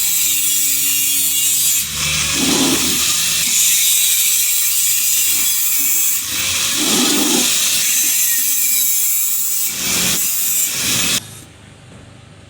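Power tool working metal with a loud, steady abrasive hiss that swells three times, then cuts off suddenly near the end.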